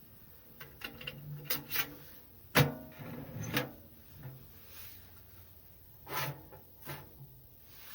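Objects being handled: a series of knocks, clicks and rubbing, the loudest a sharp knock with a short ring about two and a half seconds in, and two more knocks near the end.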